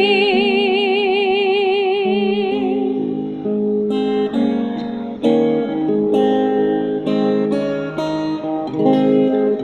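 A woman's held sung note with a steady vibrato fades out a few seconds in over acoustic guitar chords. The guitar then plays a strummed instrumental interlude on its own, changing chord every second or so.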